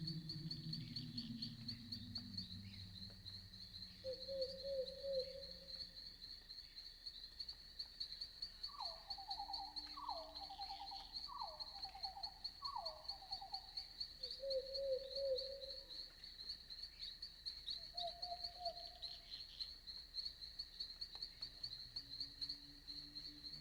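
Crickets chirping steadily in a night forest, a fast high pulsing that never stops. Twice a short lower trill cuts in, and midway comes a run of four quick falling calls from another night animal. A low sound fades out in the first few seconds and returns near the end.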